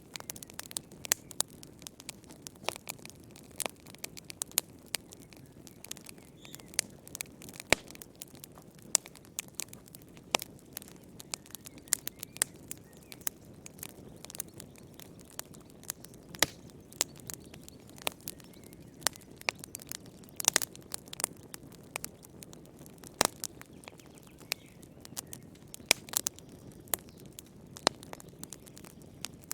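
Wood fire crackling in a fireplace: a soft steady rush of flames under frequent sharp, irregular pops and snaps of burning wood.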